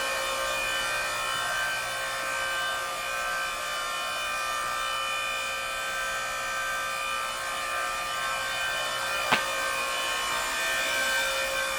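Electric motor and hydraulic pump of an 8-ton hydraulic log splitter running steadily with a constant whine, switched on and idling. A single sharp click about nine seconds in.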